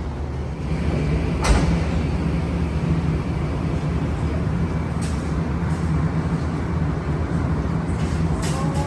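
Steady low rumble of an Amtrak Auto Train as heard aboard, with one sharp knock about a second and a half in and a few fainter clicks later.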